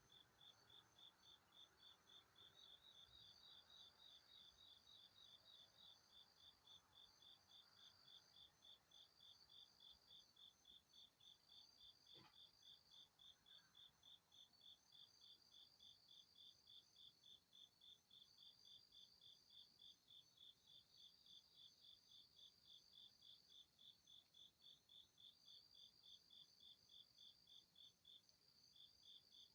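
Faint chorus of chirping insects: one chirps steadily about three times a second, while a higher trill comes and goes above it. A single faint click about twelve seconds in.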